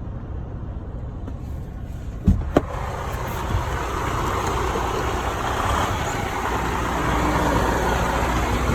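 Semi-truck diesel engine idling with a steady low rumble. Two sharp clicks come a little over two seconds in, after which a broad hiss rises and stays.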